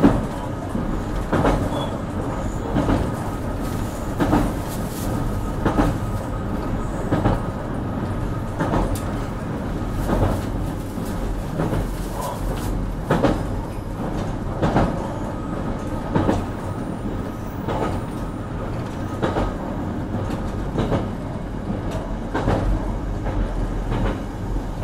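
Onboard running sound of a JR Kyushu BEC819 series DENCHA train at steady speed: the wheels clack over rail joints about every second and a half, over a constant rumble with a thin steady high tone.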